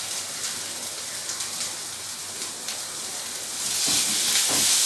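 Chopped onion, tomato and ginger-garlic paste sizzling in a little oil in a kadai. The sizzle grows louder near the end as a spatula stirs them.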